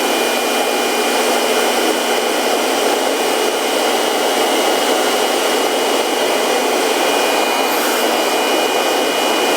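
INNTech IT-4014 850-watt electric blower running steadily with its nozzle in an air mattress valve, inflating the mattress: a loud, even rush of air with a thin high motor whine over it.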